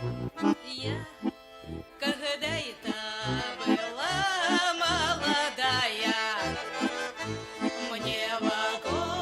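Accordion music: a folk tune over regular pulsing bass chords, with a wavering high melody line coming in about four seconds in.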